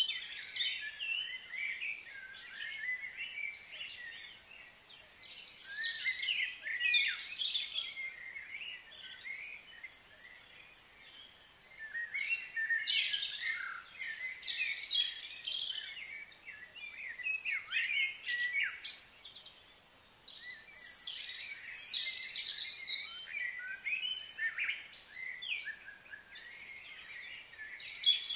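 Songbirds chirping and singing in several bouts, short whistled notes sweeping up and down over a faint outdoor hiss.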